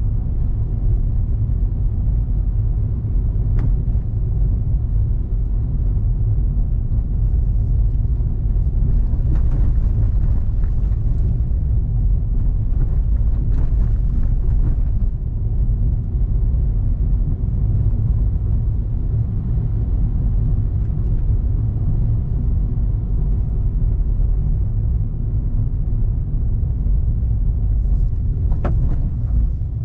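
A car driving along a road: a steady low rumble of engine and road noise, with a couple of faint brief ticks, one a few seconds in and one near the end.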